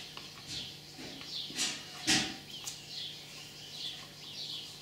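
Small birds chirping over and over in short falling chirps, with a couple of brief rustles of paper being handled about one and a half and two seconds in.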